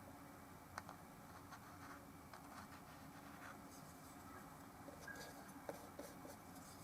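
Faint scratching of a paintbrush working oil paint on the painting surface, with a couple of light clicks, over a low steady hum.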